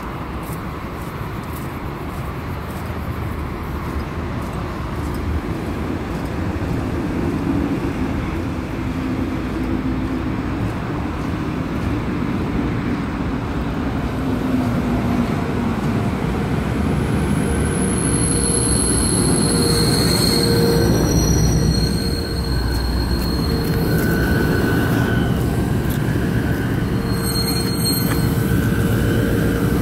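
A passenger train approaching and running underneath, its rumble growing steadily louder. From a little past halfway, high-pitched metallic squeals come and go over the rumble.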